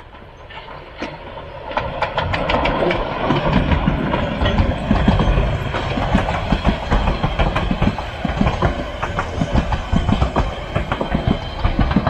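Narrow-gauge Brocken railway train approaching and passing close, wheels clattering over the rail joints with a heavy rumble. It grows louder over the first few seconds and then stays loud.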